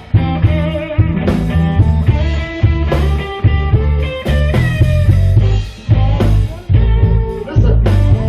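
Blues band playing an instrumental break: guitar lead over bass and drums.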